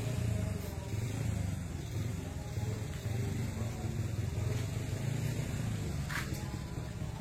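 A steady low engine rumble, with a short sharp sound about six seconds in.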